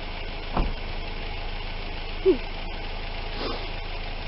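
Car engine idling steadily while the car is stuck in deep snow. A thud comes just after the start, and a short, sharp squeak falling in pitch comes about halfway through and is the loudest sound.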